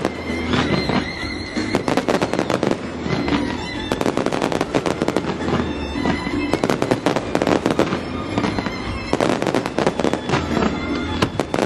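Fireworks display going off in volleys of rapid crackling pops, a new dense cluster every second or two.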